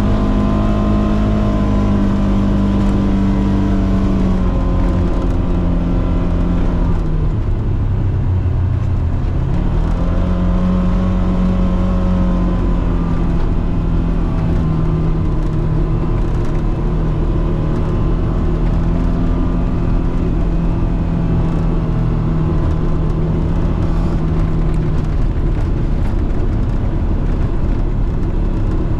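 Polaris Xpedition side-by-side's engine running on the move. The engine note eases off about four seconds in, picks back up about ten seconds in and holds steady, then eases again near the end, over a steady low rumble.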